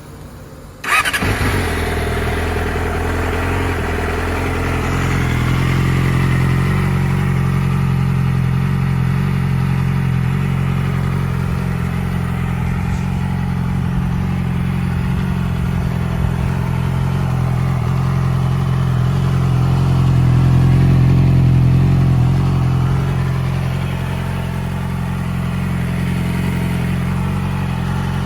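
Yamaha YZF-R6 (2007) inline-four engine with an MGP aftermarket exhaust starting up about a second in, then settling into a steady idle, swelling slightly about two-thirds of the way through.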